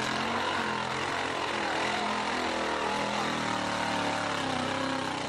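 Jeep's engine running at high revs as it ploughs through a mud bog, its note climbing a little in the second half.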